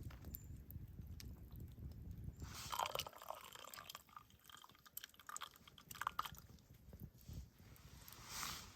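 Faint, irregular crunching footsteps of a hiker walking over rough ground.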